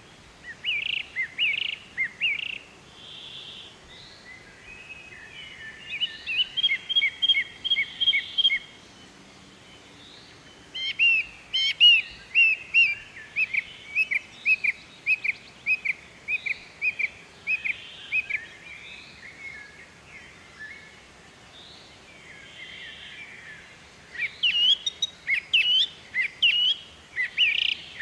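Bird song: several bouts of rapid, high chirping notes in quick series, each lasting a few seconds, with quieter pauses between them and fainter calls in the background.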